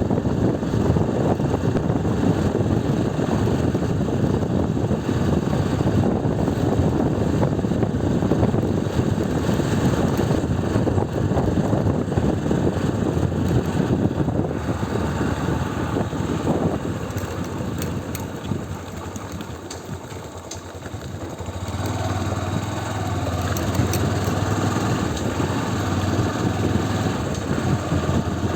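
Motorcycle riding with its engine running under heavy wind noise on the microphone. It eases off and goes quieter about two-thirds of the way through, then picks up again with a steady low engine hum.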